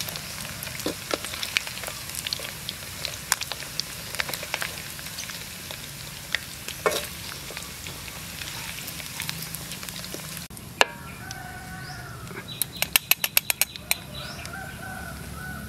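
Pork pieces frying in hot oil in a wok, sizzling and crackling with frequent sharp pops. About ten seconds in the sizzle cuts away and a rooster crows, with a quick run of about ten clicks between its calls.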